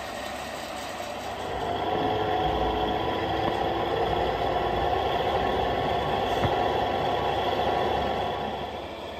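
Gauge 1 model Warship diesel locomotive running, a steady engine-like drone that swells about a second and a half in and fades again near the end.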